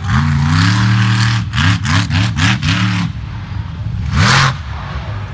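Monster truck engine revving: one long rev, then about five quick throttle blips in a row, and one more sharp rev near the end.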